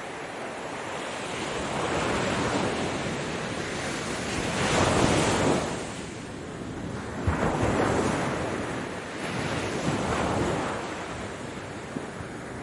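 Ocean waves breaking and washing on a shore, a series of surges that swell and fade; the loudest comes about five seconds in, with smaller ones around two, seven and a half and ten seconds.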